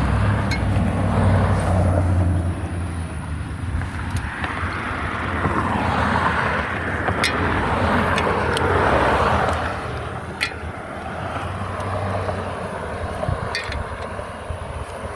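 Road traffic passing: a low engine hum in the first couple of seconds, then tyre noise that swells and fades about six to nine seconds in, with scattered light clicks and rattles.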